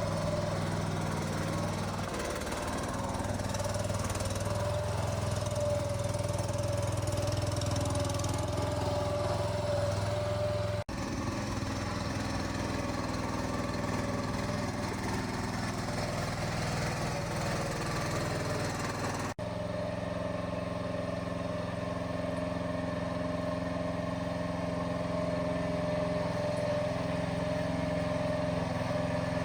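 An engine or motor running steadily with a constant hum, briefly broken twice by abrupt cuts.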